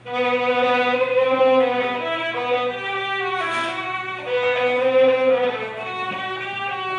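Violin playing a slow melody of long held notes, coming in suddenly at the start.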